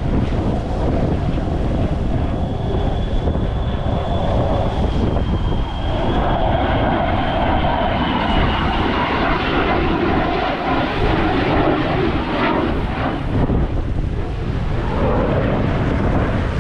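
Fighter jet flying over, a steady jet-engine rumble with a high whine that slowly falls in pitch.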